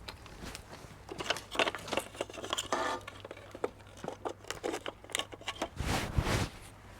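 Irregular clicks, clatters and rustling of tools and gear being handled, with a louder, deeper scuff about six seconds in.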